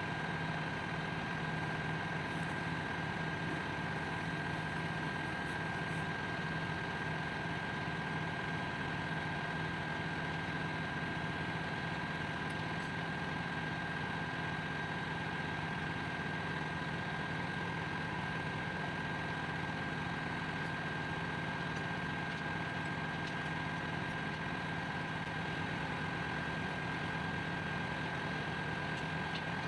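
Steady drone of a ship's engine-room machinery running, a constant noise carrying a few steady tones.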